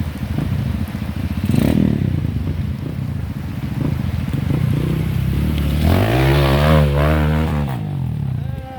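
Honda CRF150L single-cylinder four-stroke trail-bike engine running at low revs, then revving up and dropping back about six seconds in.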